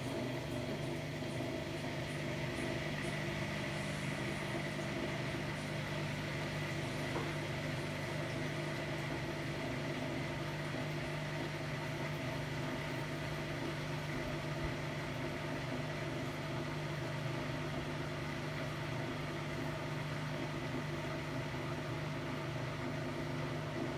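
Hotpoint-Ariston Aqualtis washer-dryer running: a steady mechanical hum with several constant tones.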